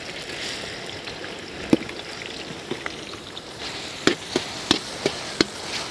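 Crushed ginger and garlic sizzling in hot coconut oil in an iron wok, with a steady hiss. A metal slotted ladle clicks and scrapes against the pan as it stirs, once early and several times in the second half.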